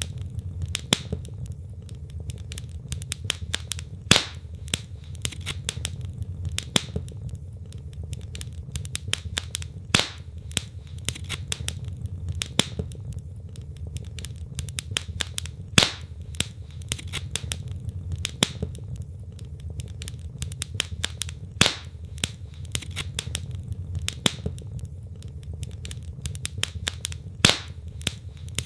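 Wood fire crackling in a fireplace: a steady low rumble of flames under a constant scatter of small crackles, with a louder pop about every six seconds.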